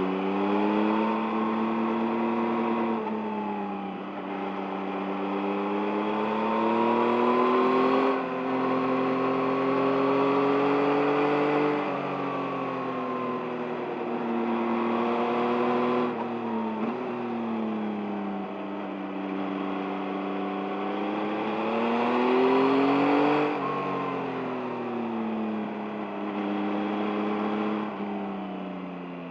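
2023 Yamaha MT-09's three-cylinder engine under way, revs climbing and falling again and again as the bike accelerates and slows, with several sudden drops in pitch.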